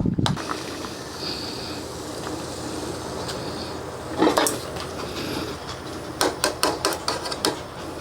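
Sharp clinks and knocks of cooking utensils and dishes being handled: one louder knock about four seconds in, then a quick run of clicks and knocks near the end.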